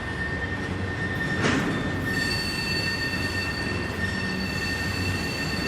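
Freight train rolling past with its wheels squealing against the rails. A steady high squeal runs over the rumble of the cars, and two higher squeals join about two seconds in.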